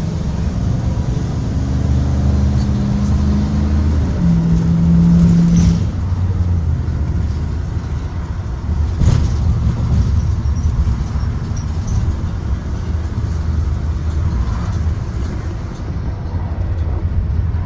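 2023 Blue Bird Vision school bus driving: engine drone and road rumble, with the engine pitch shifting over the first several seconds before settling to a steady run. A single sharp knock comes about nine seconds in.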